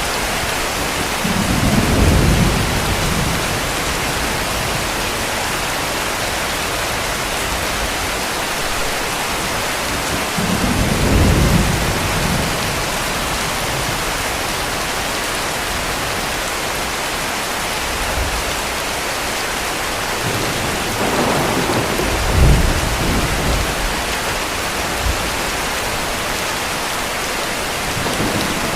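Heavy rain falling steadily, with distant thunder rumbling low three times: about two seconds in, around eleven seconds, and near twenty-two seconds, the last with a sharper crack.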